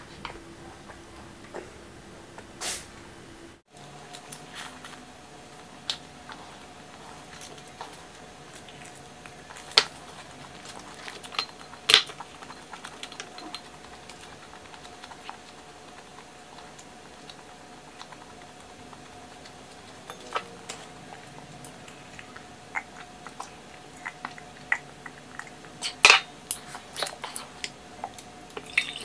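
Close-miked chewing and wet mouth sounds of a person eating, with scattered small clicks and taps over a faint steady hum. A cluster of louder clicks and knocks comes near the end.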